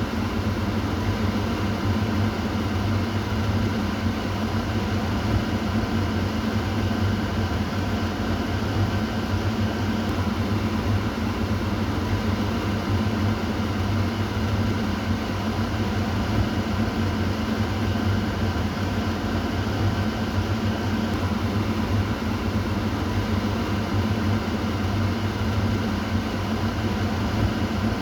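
Kitchen exhaust fan running steadily: an even whoosh of air over a constant low motor hum.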